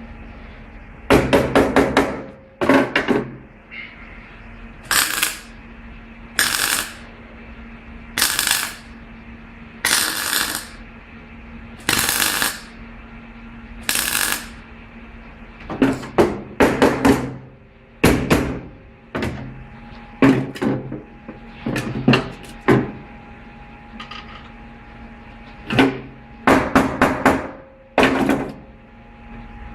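Metal tools clanking and knocking in short bursts every second or two, over a steady low hum.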